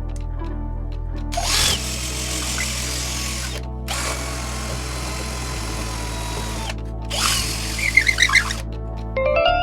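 Power drill boring a hole in wood, running in three separate bursts of a few seconds each, over background music.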